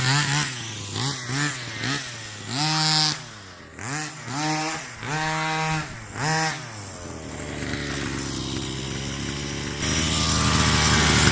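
Ported 45cc two-stroke engine of a Rovan Baja 1/5-scale RC car revved in a quick series of about eight throttle blips, each rising and falling in pitch, then settling back to a steady idle about seven seconds in. The idle grows louder near the end.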